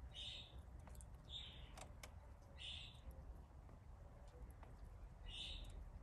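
A bird calling faintly: four short, harsh calls spaced unevenly over a few seconds, over a low rumble.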